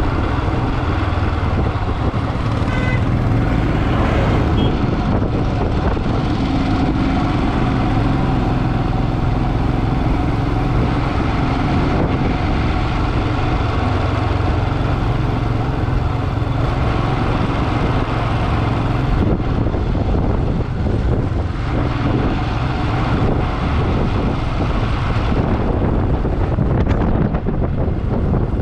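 Motorcycle running steadily on the road, its engine rumble under a steady rush of noise.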